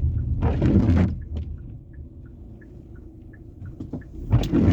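Car interior: a low engine and road rumble that dies down about a second in, a quick steady ticking about three times a second, and two short swishes about four seconds apart.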